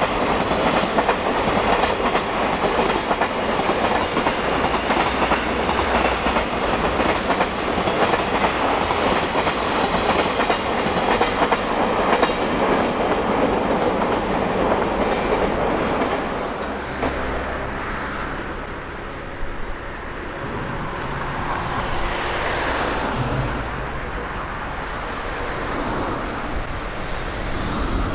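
Freight train of loaded container flatcars rolling past, wheels clattering steadily over the rail joints. About sixteen seconds in the clatter fades as the last wagons draw away, leaving a fainter rumble.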